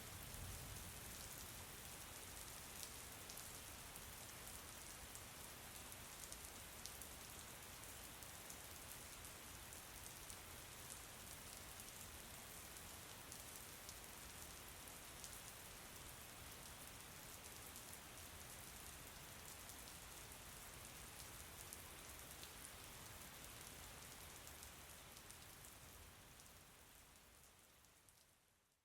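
Soft, steady rain with many small drop ticks. It fades out over the last few seconds.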